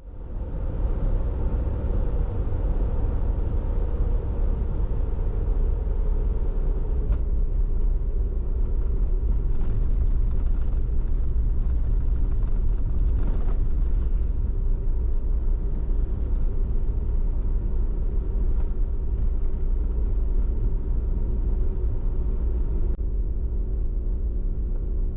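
Toyota HiAce van driving: a steady low engine and road rumble.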